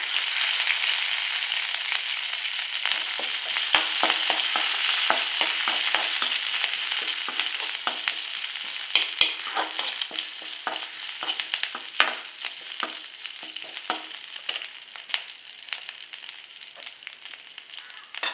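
Tempering sizzling in hot oil in a metal kadai: mustard seeds, urad dal, crushed ginger-garlic and fresh curry leaves frying, stirred with a metal ladle, with many sharp pops and clicks. The sizzle is strong at first and dies down over the second half.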